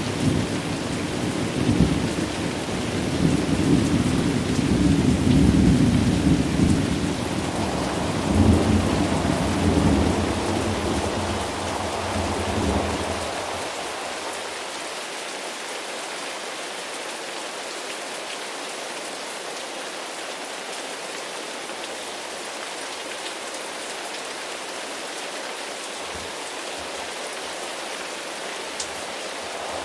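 Thunderstorm: steady rain with a long roll of thunder that rumbles and swells for the first dozen seconds, then dies away, leaving only the even hiss of rain. A new rumble of thunder starts right at the end.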